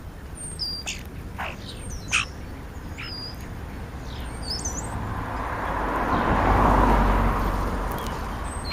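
European starlings giving short whistles, clicks and chirps, several quick calls in the first half. In the second half a vehicle goes by, its noise swelling to the loudest point and then fading.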